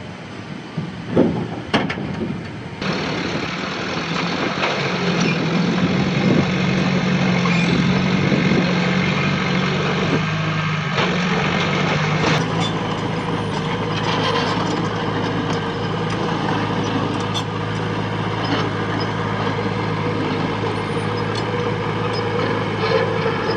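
Heavy diesel engine running steadily, with scattered metallic clanks and knocks. Two sharp knocks come about one to two seconds in.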